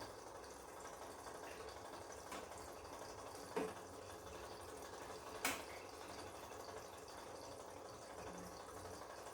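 Bosch Komfort-Klasse washing machine mid-cycle: faint steady water noise from the drum, with a few short ticks or drips, the sharpest about five and a half seconds in.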